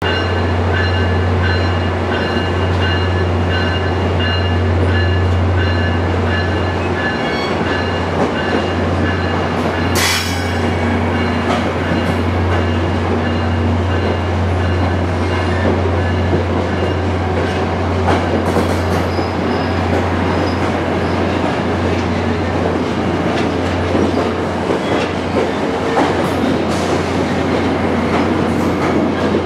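Virginia Railway Express diesel commuter train: a steady low hum throughout, with a faint high whistling squeal in the first several seconds and one sharp metallic clank about ten seconds in. Later come scattered wheel clicks as the bilevel cars begin rolling slowly past.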